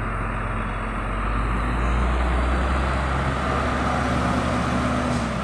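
Heavy truck's diesel engine running steadily under load, growing louder to about two seconds in and then easing slightly.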